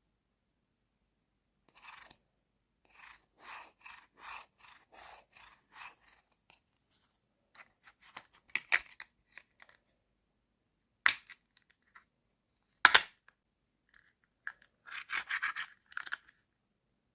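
Small plastic toy pieces and packaging being handled. A run of short scratchy rubs, about two a second, is followed by three sharp plastic clicks spread over several seconds, then a brief burst of rustling near the end.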